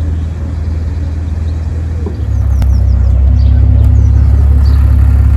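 A Dutch barge's inboard engine running under load while manoeuvring, with a steady low drone that steps up in level about two seconds in as the throttle is opened. A few faint bird chirps sound over it.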